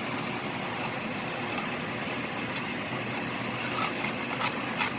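Ground chicken cooking in a pan with its sauce: a steady sizzle with a few faint pops.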